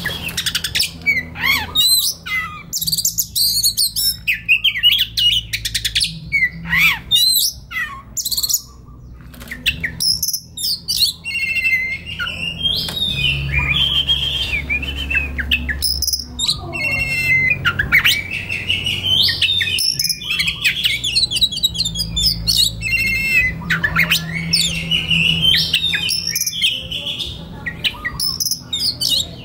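Oriental magpie robin singing a long, varied song of whistled glides, quick trills and harsh chattering phrases, almost without pause.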